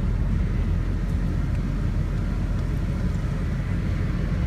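Steady low engine rumble of a running vehicle, even throughout with no revving or sudden sounds.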